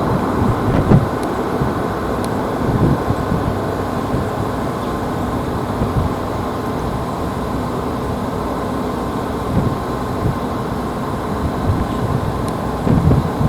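Steady jet engine noise from an airliner on the ground, with a faint steady whine and low gusts of wind buffeting the microphone.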